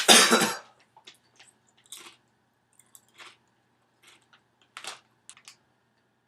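Someone chewing crunchy food close to the microphone, most likely chips, in short irregular crunches spread across several seconds. It opens with a loud, noisy burst lasting about half a second.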